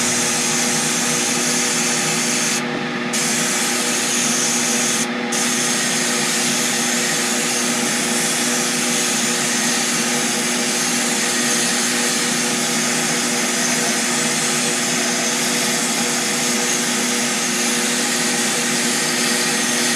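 Sandblaster's media-blast gun spraying abrasive to strip old paint off a vise part: a steady harsh hiss with a steady hum beneath it. The hiss is briefly cut twice in the first few seconds.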